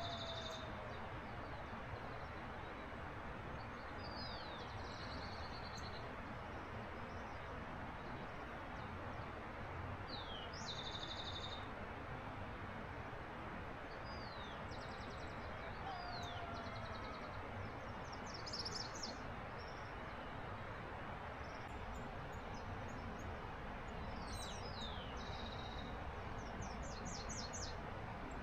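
Birds calling over a steady background hiss. One high call repeats every few seconds: a quick falling note followed by a fast run of short notes. A lower falling whistle comes twice.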